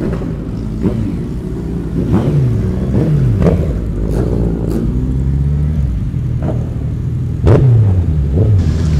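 Suzuki Hayabusa sport motorcycle's inline-four engine being revved in several sharp throttle blips, the pitch falling back after each one.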